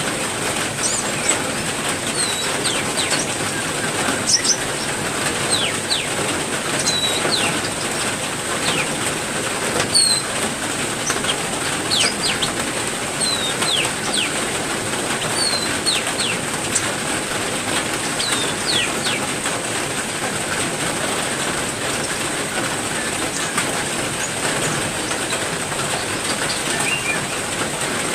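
Heavy rain falling steadily, with small aviary birds giving short, sharp downward chirps, frequent through the first two-thirds and only occasional near the end.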